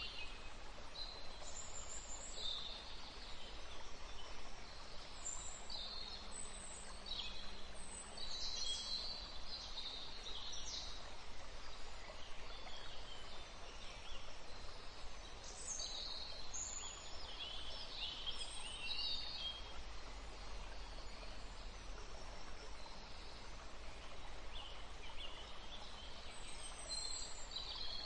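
Birds chirping: many short, high calls scattered throughout, over a steady background hiss.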